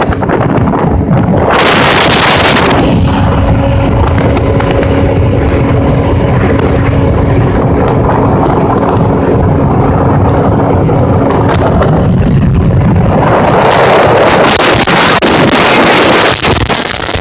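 Motorboat running fast with a steady engine drone, and wind buffeting the microphone. There are louder rushes of wind about a second and a half in and again near the end.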